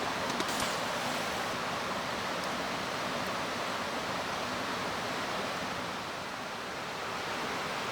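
Mountain stream rushing steadily, an even watery hiss.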